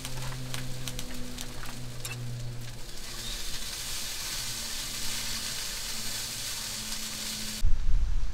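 Food frying in a pan: crackling pops through the first few seconds, then a steady sizzling hiss. It cuts off abruptly near the end, replaced by a low rumble.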